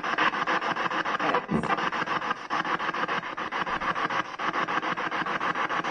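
Spirit box sweeping through radio stations: continuous rasping static chopped into rapid pulses, about ten a second.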